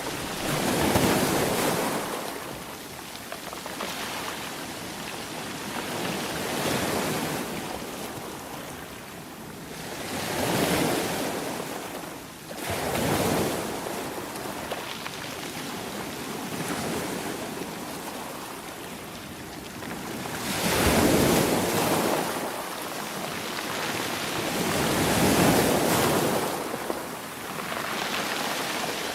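Sea waves breaking and washing up on the shore, each wave swelling into a loud rush of surf and fading over a couple of seconds, about six times.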